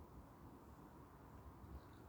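Near silence: a faint, even low rumble of outdoor ambience, with a brief faint high chirp near the end.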